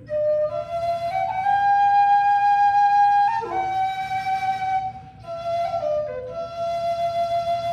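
Low whistle playing a slow air: long held notes, each changed with quick grace-note ornaments, and a short breath about five seconds in.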